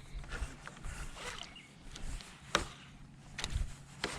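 A few scattered sharp knocks and clicks, with a dull low thud about three and a half seconds in, from gear being handled in a jon boat.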